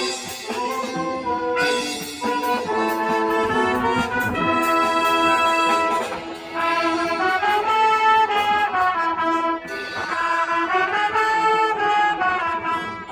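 School brass band playing a send-off piece, trumpets and trombones holding full chords that change every second or so.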